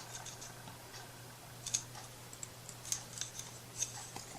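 A few faint, short clicks and light scrapes from small wooden craft pieces being handled and fitted, over a steady low hum.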